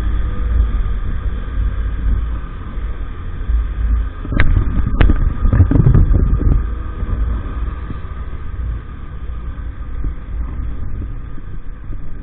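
A 50cc moped running on the move, under a heavy low rumble of wind on the microphone. Two sharp knocks come about four and five seconds in.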